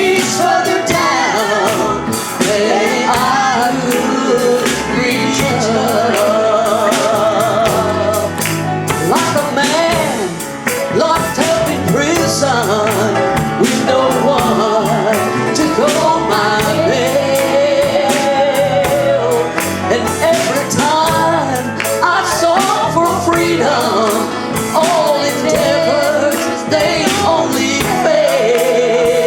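Gospel song: singing with instrumental accompaniment and a steady beat.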